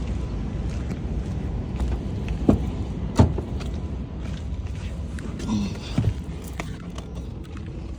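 Steady low rumble of a vehicle, with a few sharp knocks and clicks, the loudest about two and a half and three seconds in and two more around six seconds.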